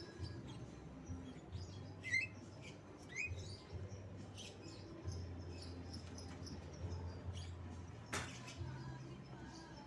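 Javan myna giving scattered short chirps and whistled notes in mimicry of a white-rumped shama's song. Two clearer curved notes come about two and three seconds in, and a sharp harsh note just after eight seconds, over a faint low hum.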